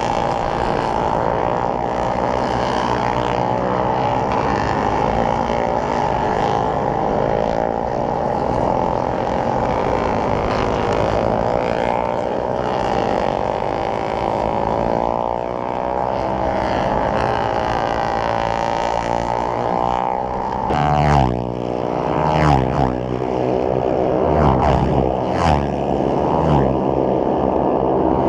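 Motorcycle engine running under way, its pitch rising and falling with the throttle over a steady rush of wind noise. In the last third come sharper revs up and down with jumps in loudness.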